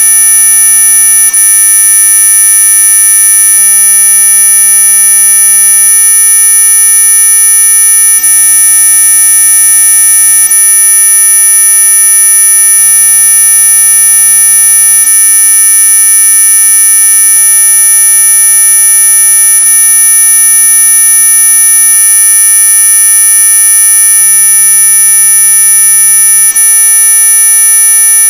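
Synthesized high-frequency electronic tone: several steady tones sounding together, the loudest very high-pitched, held unchanged and very loud.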